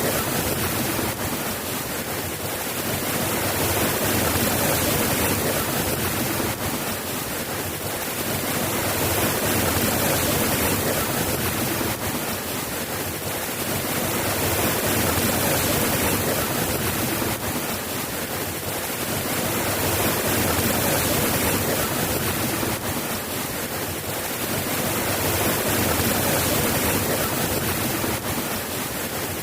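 Steady rain, an even hiss of falling water that swells and eases gently about every five to six seconds.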